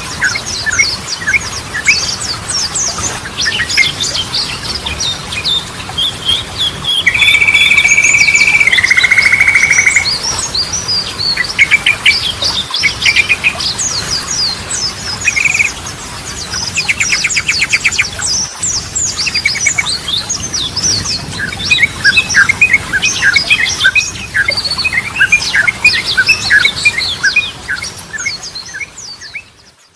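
Yellow-vented bulbul (trucukan) singing: a dense run of quick chirps, bubbly trills and rattling phrases, with a steady held note about seven seconds in that drops into a lower warble. The song fades out near the end.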